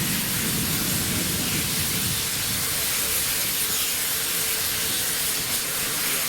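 Steam locomotive letting off steam in a steady, loud hiss, with a lower rumble underneath that fades about two seconds in.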